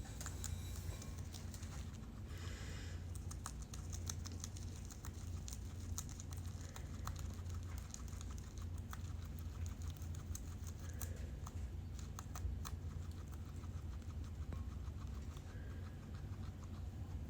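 Guinea pig moving and munching in its cage: quick irregular clicks and crackles with a brief rustle a couple of seconds in, over a low steady hum.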